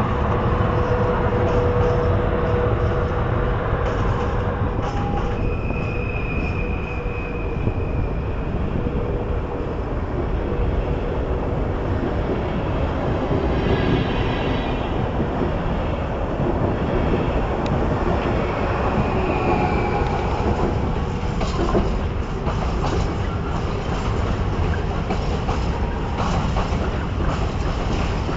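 PKP Intercity ED160 electric multiple unit running past along the platform: a steady rumble of wheels on rail, with a steady whine fading over the first several seconds and brief wheel squeals about five seconds in and again near twenty seconds.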